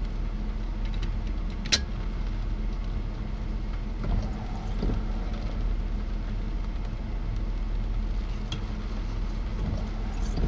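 Steady low hum of a vehicle's engine idling, heard from inside the cab, with a single sharp click about two seconds in.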